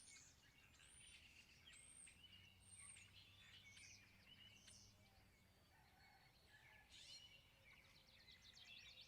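Several songbirds singing faintly together, a mix of quick high chirps, slurred whistles and trills that overlap throughout, over a faint low hum.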